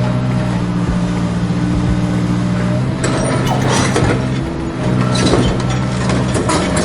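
Small motors and gearboxes of RC construction toys running with a steady hum that shifts in pitch a few times, with scattered mechanical clicks and clatter.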